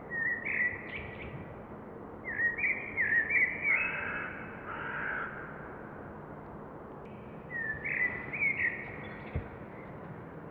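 Birds calling outdoors: short runs of quick rising notes come in three or four bursts, each about a second long, over a faint steady low hum.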